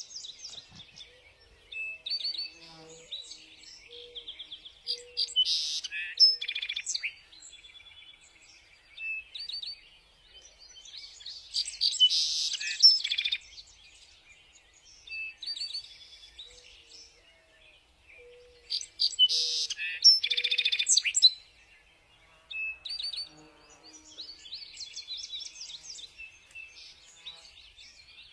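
Several songbirds singing and calling, chirps and trills throughout, with louder bursts of song about six, twelve and twenty seconds in.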